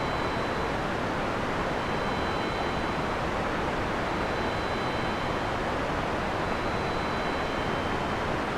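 Heavy rain falling steadily in a forest, an even hiss with no thunder, with faint steady high tones in the background.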